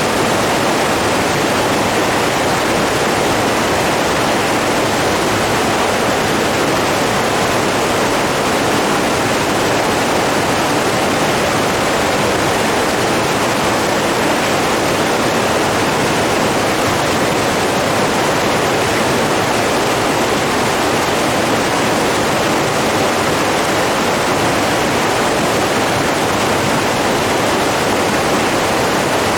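Running water rushing steadily and evenly, a dense unbroken hiss with nothing else standing out.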